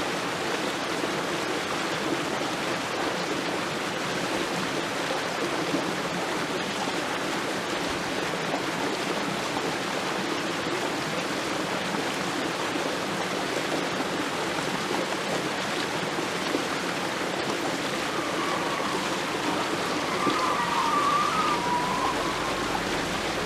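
Mountain headwater stream rushing steadily over rocks, an even, continuous water noise.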